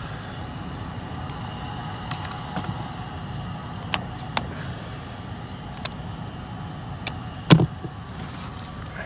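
A steady low hum with several sharp clicks and one louder knock about seven and a half seconds in.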